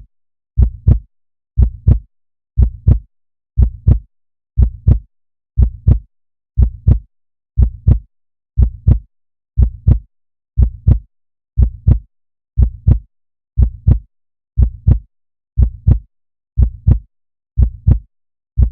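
Heartbeat sound effect: a steady lub-dub double thump about once a second, with silence between the beats.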